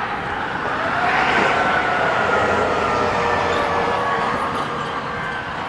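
A fire engine driving past: engine and road noise, with a tone that rises about a second in and then slowly falls.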